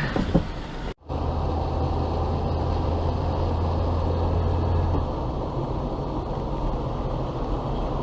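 Steady road and engine noise of a car driving. It breaks off for an instant about a second in, and a low hum underneath stops about five seconds in.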